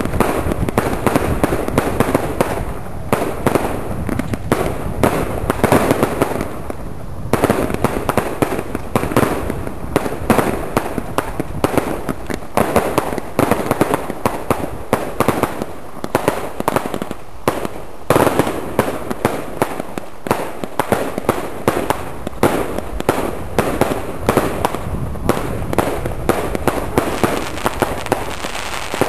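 A large bundle of fireworks and firecrackers going off together: dense, rapid popping and crackling that never lets up, with frequent louder bangs standing out.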